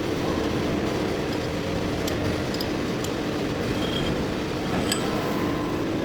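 Heavy-duty lathe running steadily as it turns a large steel part, a constant mechanical drone with a steady hum, with a few short, sharp metallic clinks in the middle.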